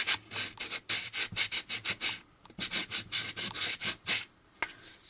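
Sandpaper rubbed by hand in quick back-and-forth strokes over the puttied seam of a round plastic model part, cross-sanding to smooth it into an even curve. The strokes pause briefly about two seconds in, resume, and stop a little after four seconds.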